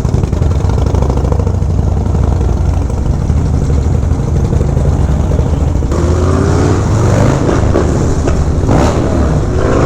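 Harley-Davidson Dyna's V-twin engine running steadily while riding, with a rushing noise that grows about six seconds in.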